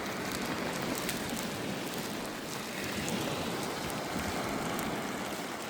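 Steady rushing water noise at the beach, with faint ticks throughout.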